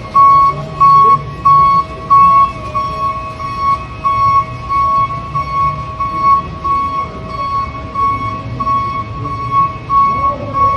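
Electronic beeping at one steady high pitch, about twice a second, over a low rumbling hum.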